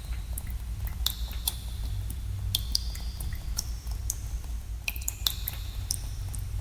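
Water drops falling into pools in a cave, each landing as a sharp plink, several a second at uneven intervals, some ringing briefly at a high pitch, over a steady low rumble.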